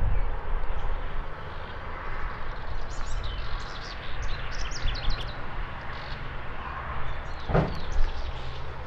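Birds chirping over a steady low rumble, with one sharp knock about seven and a half seconds in.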